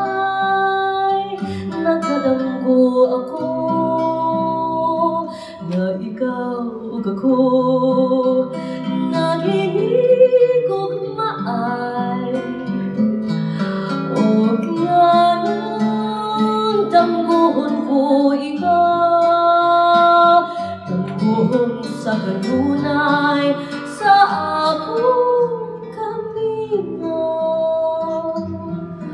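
Live acoustic music: an acoustic guitar playing a slow, lyrical passage of a Filipino ballad, with a sustained melodic line above it and no lyrics.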